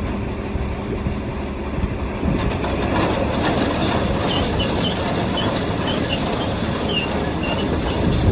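John Deere 4230 tractor's six-cylinder diesel running steadily, with machinery rattle that gets louder about two seconds in.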